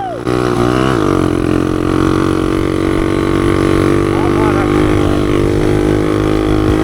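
Small single-cylinder four-stroke pit bike engine easing off, its pitch dropping just after the start, then running at a steady speed with an even drone.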